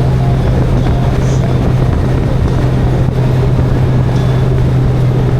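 Motorcycle riding at a steady cruising speed: a constant, loud engine drone with rushing wind and road noise.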